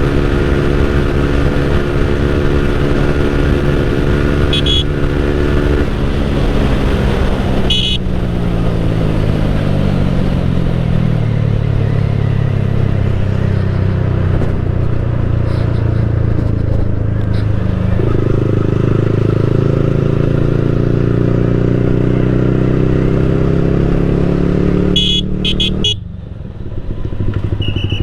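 Motorcycle engine with a Leo Vince GP Corsa aftermarket exhaust, running on the road. Its note falls as it slows about six seconds in, runs low, rises again about eighteen seconds in, then falls away and drops out briefly near the end. A few short high beeps sound over it.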